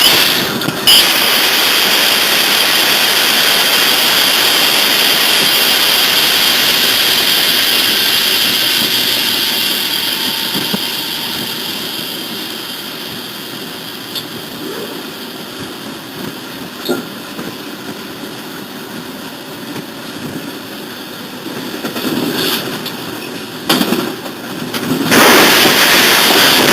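A train running by, a loud steady rush of rail noise that fades gradually through the middle, with a few sharp knocks and louder bursts of noise again near the end.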